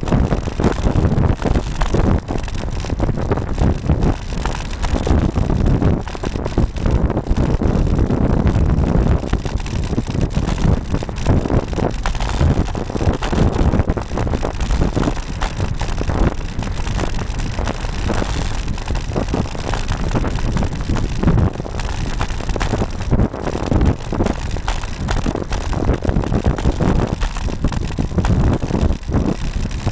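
Wind rushing over the microphone of a bike-mounted camera on a moving road bike, loud and steady, with low road rumble and frequent small knocks and rattles coming through the mount.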